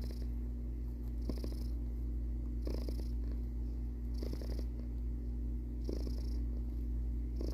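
Domestic cat purring steadily and close up, with a soft hiss returning about every second and a half.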